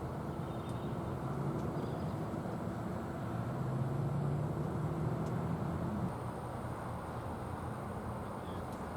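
Steady low rumble of vehicle noise, with a low engine hum swelling for a few seconds mid-way, as from a vehicle passing, then dropping off suddenly.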